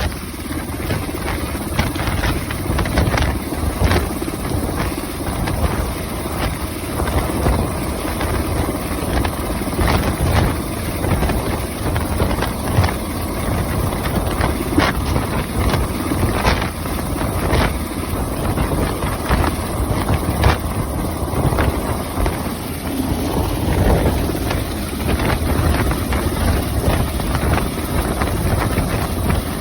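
UH-60 Black Hawk helicopter hovering overhead: the steady din of its twin-turbine engines and main rotor, with the rotor downwash buffeting the microphone in irregular gusts.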